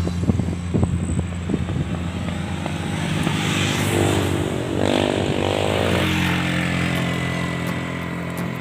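Motorcycle engine running steadily while riding, with a few knocks in the first second or two and a louder rush of noise that swells and fades in the middle.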